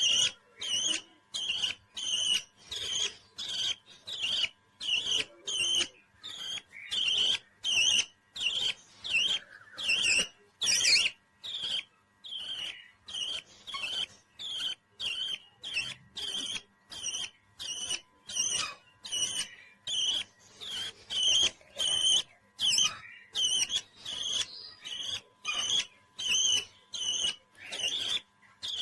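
Parrot chirping over and over in short, shrill calls, about two a second, with one louder, higher call about eleven seconds in.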